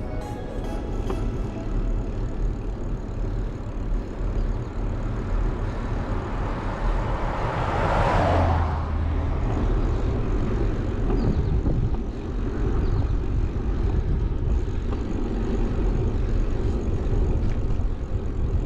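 Wind rushing over a bike-mounted GoPro's microphone while riding, with a steady low rumble. A louder rush swells and fades about eight seconds in.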